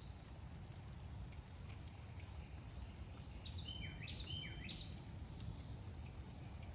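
Backyard songbirds chirping: a few short high chirps, and about halfway through a quick run of falling notes. A steady low rumble sits underneath.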